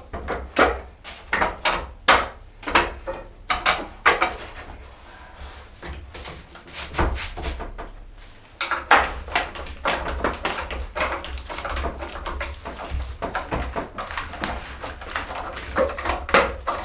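Irregular knocks, clicks and clatter of metal rods being worked into the holes in the wooden sides of a loft ladder, easing off briefly in the middle, over a steady low hum.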